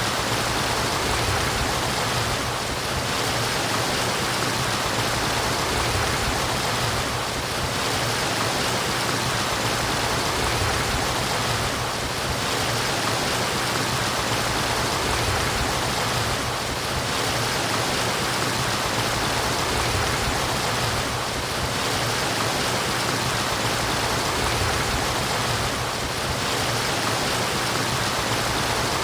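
Murmuring water of a stream: a steady, even rush with no breaks, dipping slightly about every four to five seconds.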